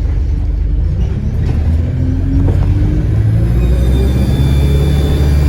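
Bus diesel engine pulling under load, its note rising steadily in pitch, with a high-pitched whistle coming in about halfway through: the sound of a leaking turbocharger.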